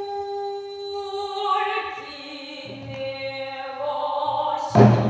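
Pansori singer holding long, drawn-out sung notes, the voice rich in overtones, moving to a new pitch about two seconds in. Near the end comes one sharp stroke of the buk barrel drum.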